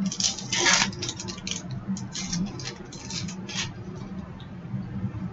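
Trading cards and a foil pack wrapper being handled by hand: a quick run of short rustles and crinkles over the first three or four seconds, the loudest near the start, then quieter.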